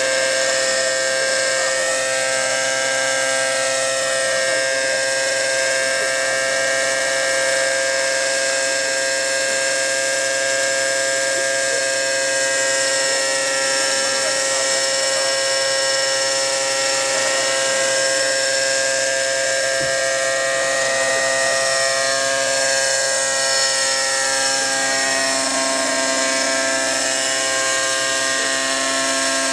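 Small engine running steadily through a newly fitted Fantec aftermarket muffler, holding one high, unchanging pitch with no revving.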